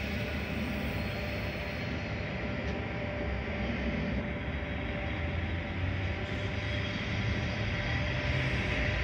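Approaching freight train led by a VL class diesel locomotive, its engine drone growing slowly louder as it nears.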